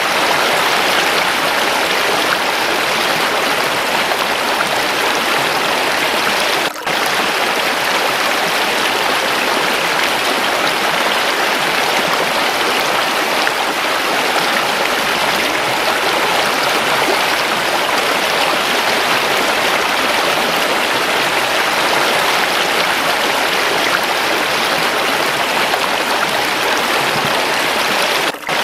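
Waterfall running water, a steady rushing flow with no let-up, broken only by two very brief drops in loudness, about seven seconds in and near the end.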